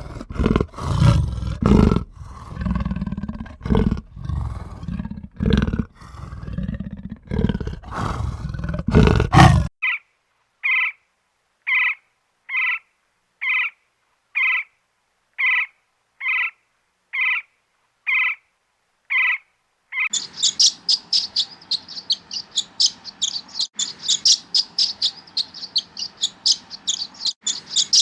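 A large animal giving loud, rough roaring calls for about ten seconds. After a cut comes a short call repeated evenly, nearly twice a second, and then, after another cut, fast high-pitched bird chirping.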